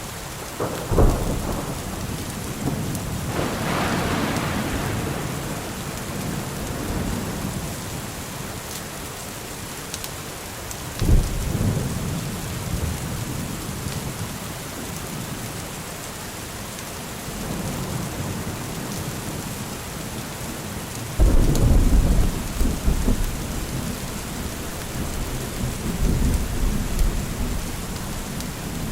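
Steady rain with repeated thunder. A sharp clap comes about a second in, a longer rolling peal around four seconds, another clap near the middle, and a loud, deep rumble about two-thirds of the way through that rolls on toward the end.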